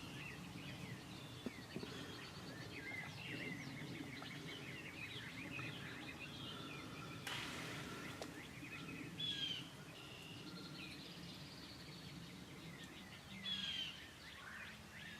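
Several songbirds singing and chirping over a steady low background hum of outdoor noise. A brief rush of noise comes about seven seconds in.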